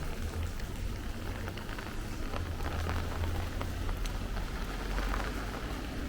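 Rain pattering and dripping, with many small sharp drop taps, over a low rumble that swells in the middle.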